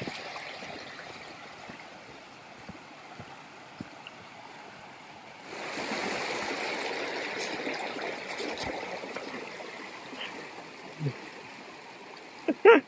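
Rushing stream water, a steady hiss that jumps louder about five and a half seconds in.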